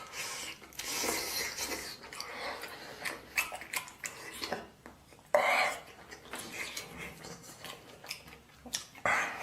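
A person eating mouthfuls of braised pork stew: chewing and mouth sounds, with short clicks of chopsticks against the bowl and one louder, noisier sound a little past the middle.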